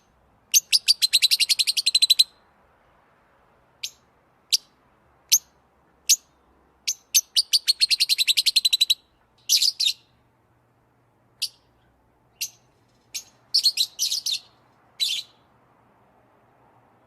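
A small songbird calling: single sharp chirps spaced a second or so apart, broken by two fast, even trills of many quick notes, one about a second in and one around eight seconds, then clusters of chirps and a quiet last second or two.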